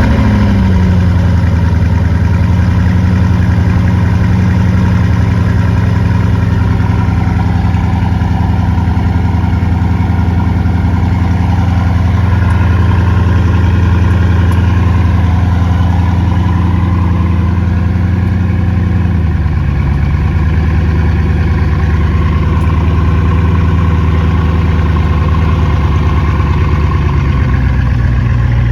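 Bugatti Chiron Pur Sport's quad-turbo W16 engine on a cold start, settling from the start-up flare in the first second or two into a steady fast idle. About nineteen seconds in, the idle steps down to a lower, steady note.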